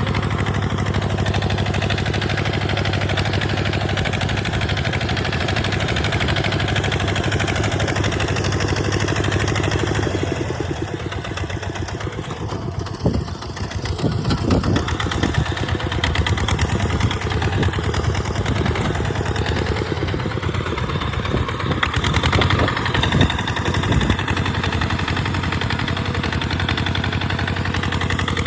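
Tractor engine running steadily while plowing sand. It eases off briefly about a third of the way in, then comes back with irregular knocks and clatter for several seconds before settling into steady running again.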